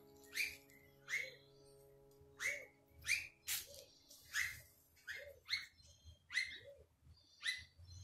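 A bird calling over and over: about a dozen short, sharp calls, each dropping quickly in pitch, coming roughly once a second.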